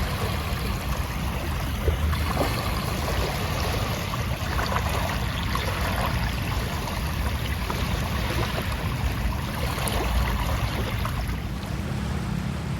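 Steady rushing noise with a low rumble underneath and a few faint clicks scattered through it.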